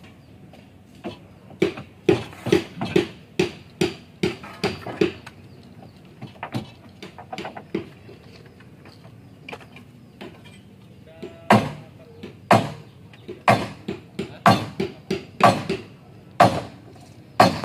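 Repeated sharp knocks of hand-tool strikes on wood. A quick run comes at about three strikes a second a couple of seconds in, and after a pause a series of harder strikes roughly one a second, some closer together, runs through the last six seconds.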